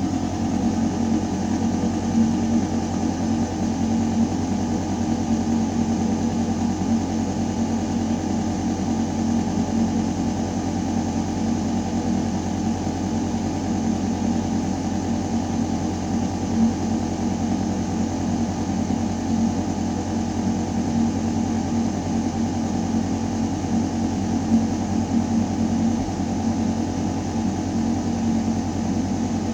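Building ventilation system running: a steady, deep mechanical hum of air moving through metal ductwork, with a few constant tones held under an even rush of air.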